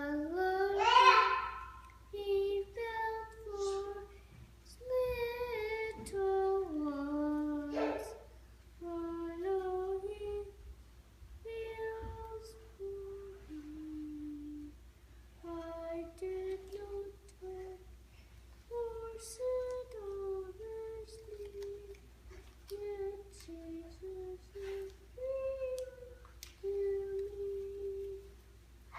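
A young child singing a song alone and unaccompanied, holding each note and stepping up and down a simple melody in short phrases.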